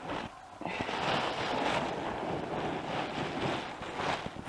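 Spruce wood shavings being poured and spread as coop bedding: a dense, ragged rustling hiss full of tiny ticks that starts about a second in.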